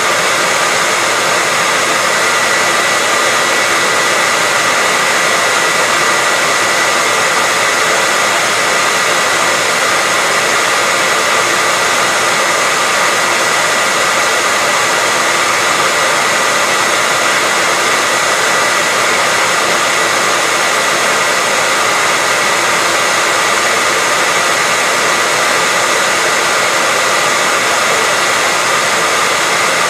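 Hair dryer running steadily: a constant, unbroken rush of air with a steady high whine from its motor and fan.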